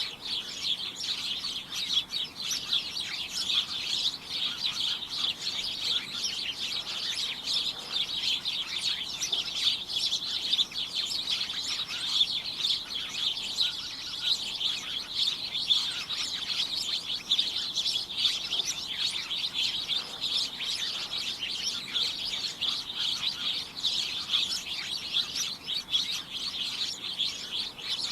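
A flock of small birds chirping and tweeting all at once, a dense, unbroken chorus of short high chirps.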